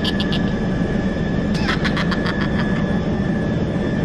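A steady, engine-like drone with a constant high whine over it. About a second and a half in comes a brief burst of rapid, repeated high chirps.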